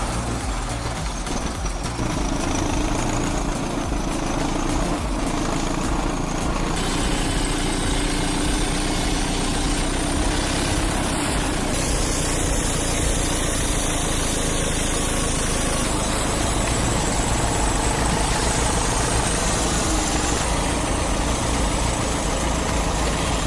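Diesel engine of heavy earthmoving machinery running steadily, its sound changing abruptly a few times.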